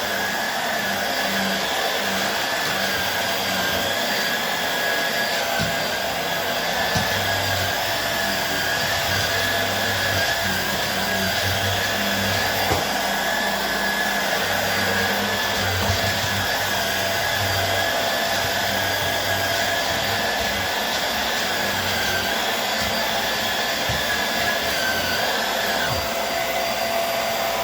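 Hoover Air Steerable upright vacuum cleaner running steadily, a constant rush of air with a steady motor whine.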